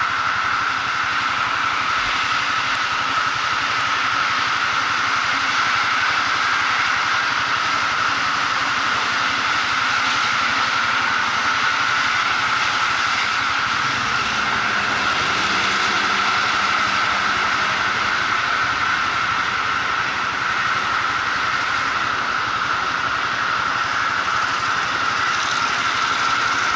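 Motorcycle under way at a steady pace: engine running evenly under a constant rush of road and wind noise.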